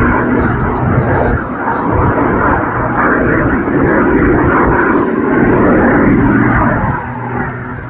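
Jet Pitts S2S aerobatic biplane, whose piston engine and two wing-mounted jet engines make a loud rushing engine noise as it flies its display. The noise builds to its loudest about six seconds in and falls away near the end.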